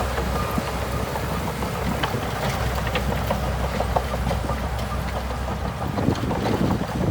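Bulldozer diesel engine running steadily: a constant low hum with light clicks scattered throughout.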